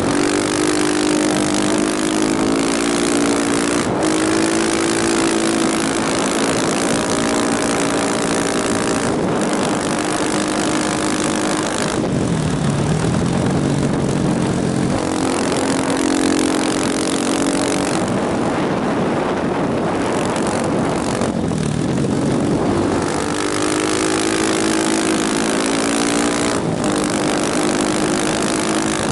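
Motorcycle engine running under way, its pitch climbing and dropping several times with the throttle and brief breaks, over heavy wind noise.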